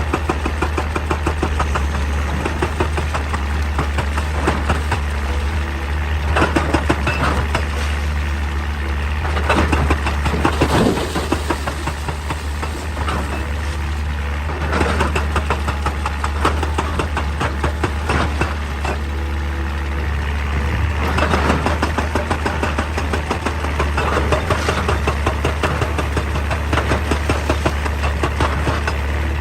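Heavy excavator's diesel engine running steadily while it works rock, with rapid knocking throughout that swells into louder bursts every few seconds.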